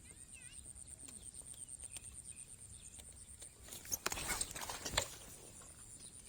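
Insects trilling steadily with a fast high pulsing, joined by a few short bird chirps in the first second. About four seconds in, a loud scuffling burst of rustling noise lasts about a second and is the loudest sound.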